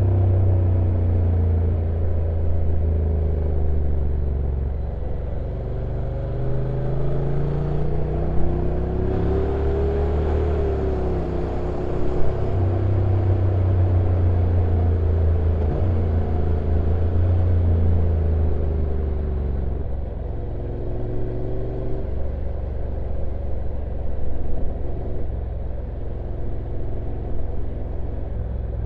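Honda NC750X DCT motorcycle's parallel-twin engine running under way on a downhill ride, its note rising and falling with the revs over a low rumble. Two short knocks come about eight and twelve seconds in.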